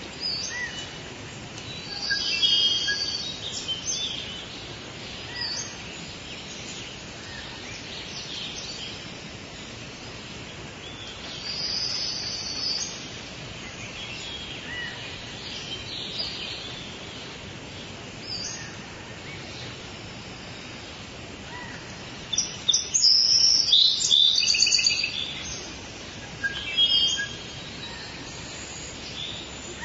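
Songbirds singing and chirping over a steady background hiss, with several louder bursts of song; the loudest bursts come about three quarters of the way through.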